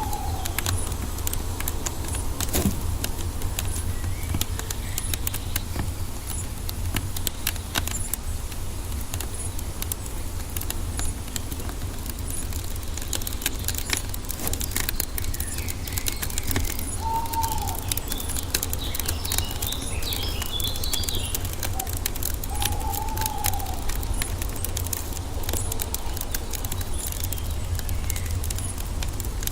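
Wood fire crackling with many sharp pops over a steady low rumble. A few short birdcalls sound over it, with a brief burst of twittering about two-thirds of the way through.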